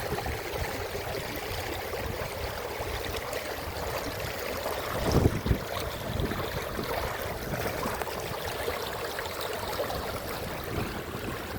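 Steady rush of moving water, with one louder surge about five seconds in.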